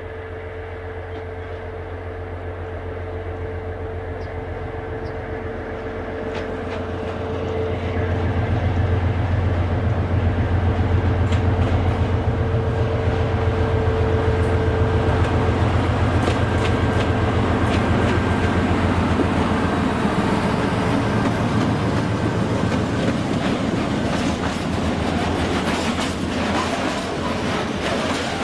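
A train approaching and passing: a deep engine drone grows louder over the first eight seconds and then holds. Wheels clack over the rail joints, the clacks coming faster and thicker toward the end.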